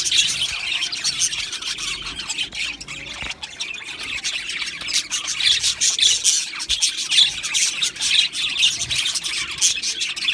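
A flock of budgerigars chattering, with many overlapping chirps and squawks running on without a break.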